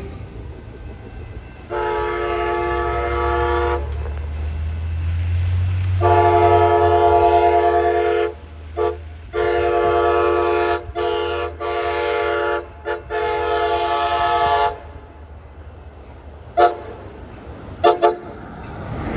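Passenger train's diesel locomotive horn sounding a multi-tone chord: a two-second blast, then a long sounding broken by several short gaps, then two brief toots near the end. Underneath is the rumble of the locomotive's engine, which fades out about two-thirds of the way in.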